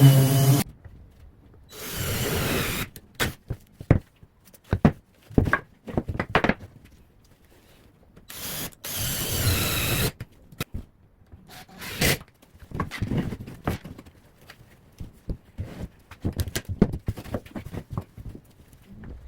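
Woodworking sounds: two short bursts of a power tool running, about a second each, with scattered knocks and scraping of wood being handled between them.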